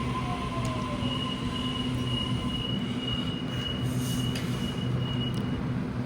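Sydney Trains Waratah electric train at the platform: a steady low hum from its motors and equipment, with a high-pitched steady squeal or whine that sets in about a second in and stops near the end.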